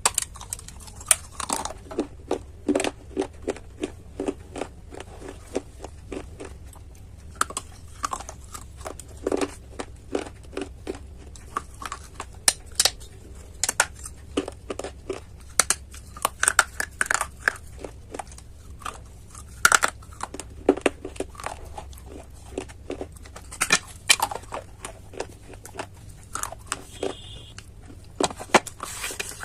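Close-miked biting and chewing of hard clay pieces: sharp crunches and crackles at irregular intervals, over a steady low hum.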